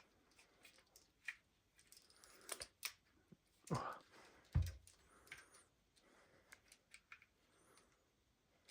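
Faint, scattered clicks and knocks of small gas blowback pistol parts being handled and fitted together during reassembly, with a duller knock about four and a half seconds in.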